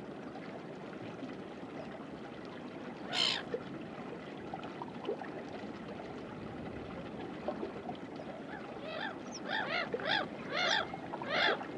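Stream water running steadily over rocks, with a short burst of noise about three seconds in. From about eight seconds a bird calls in a quick series of short calls.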